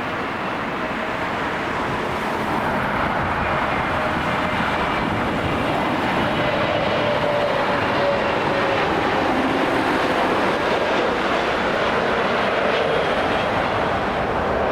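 Jet airliner's engines passing, a steady rushing noise that grows slowly louder, with faint tones that slowly drop in pitch.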